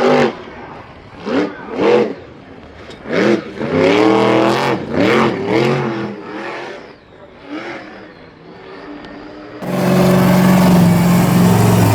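A motor-vehicle engine revving in a series of short bursts, its pitch climbing and dropping with each blip. About ten seconds in, a louder engine sound with a steady low pitch cuts in abruptly.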